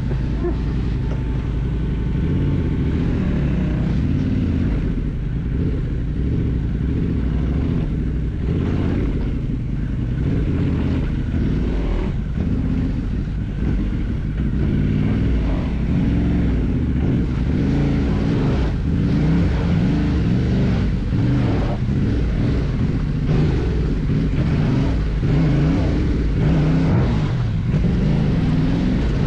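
Motorcycle engine running on an off-road trail, its pitch and loudness rising and falling as the throttle opens and closes.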